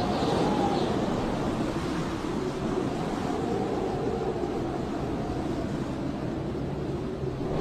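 Blizzard wind howling: a steady rush of wind with a faint whistling tone that rises and falls.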